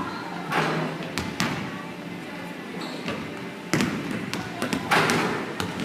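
Basketballs bouncing on a hard court during a drill: a handful of irregular, echoing thuds.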